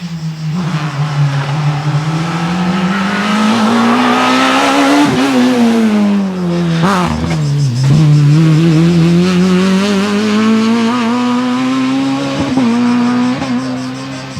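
Rally car engine under hard acceleration, revs climbing, then dropping sharply around the middle with a sharp pop about seven seconds in, then climbing again with brief dips near the end as it shifts gear.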